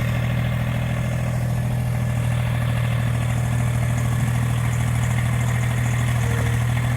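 An engine idling steadily, having just started, with an even low hum at constant speed.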